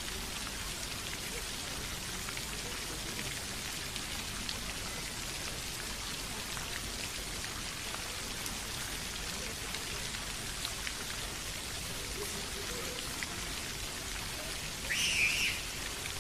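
Steady patter of falling water, an even hiss sprinkled with small drop ticks. A brief, louder high-pitched call cuts in about a second before the end.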